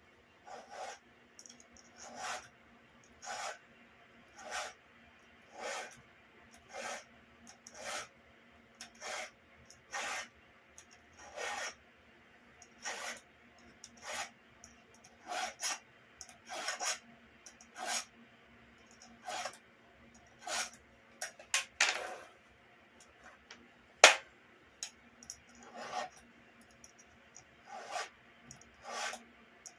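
Round file stroking across the cutters of a Stihl MS170 chainsaw chain, one rasping push about every second, a few strokes per tooth, as the chain is hand-sharpened. A single sharp metallic click stands out about two-thirds of the way through.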